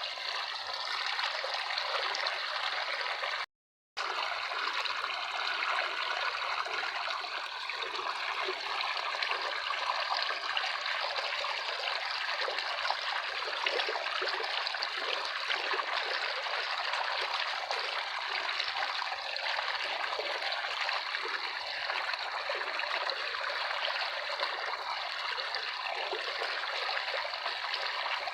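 Running water of a stream flowing steadily, with a split-second dropout to silence about three and a half seconds in.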